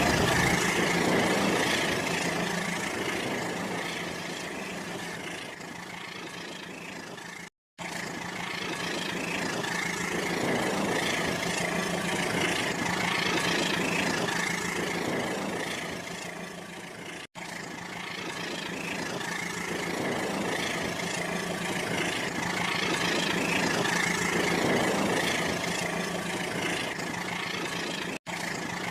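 Battery-powered toy train running with a steady motor whir and hum, swelling and fading every ten seconds or so, with three very brief cut-outs.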